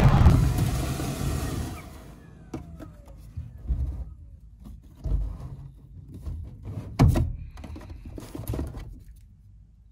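Robot vacuum working inside a cold air return duct: its running noise fades within the first two seconds, then it knocks and bumps against the duct several times, the sharpest knock about seven seconds in.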